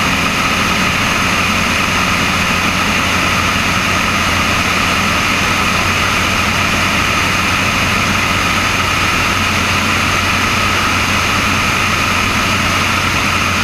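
Cessna 172's engine and propeller running steadily with an even drone, heard through a wing-mounted GoPro.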